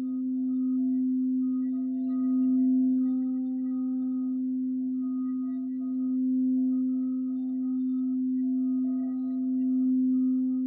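Singing bowl sounding one steady low tone with fainter overtones above it, swelling and easing in slow pulses every few seconds.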